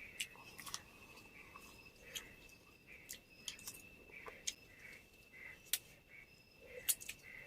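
Eating sounds: scattered light clicks and taps of utensils on dishes, with a few louder clinks near the six- and seven-second marks. A faint steady high-pitched tone runs underneath.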